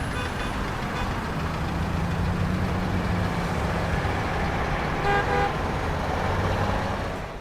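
Truck engine and road noise from a driving sound effect, a steady low rumble, with one short horn toot about five seconds in.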